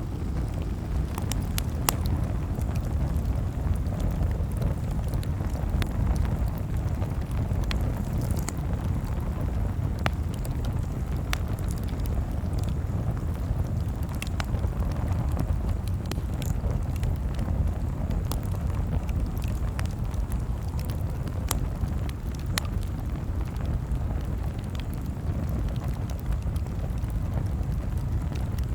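Wood fire crackling: a steady low rumble of burning with irregular sharp pops and snaps scattered through it.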